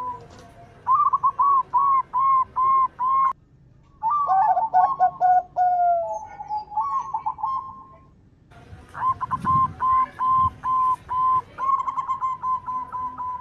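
Zebra dove (perkutut) cooing song: quick runs of short, evenly spaced coos, some sliding down in pitch. The runs are twice broken by a brief, sudden silence.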